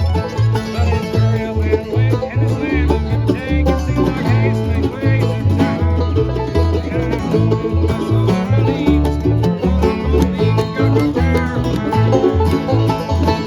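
A bluegrass band playing, with banjo picking over a bass line that steps between notes on the beat.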